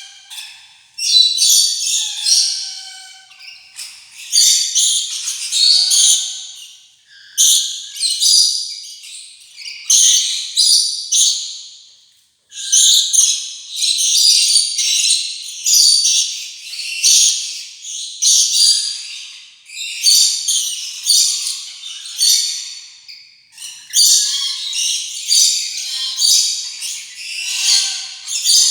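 Rainbow lorikeets chattering and screeching: harsh, high, rasping calls in runs of a second or two, broken by short pauses.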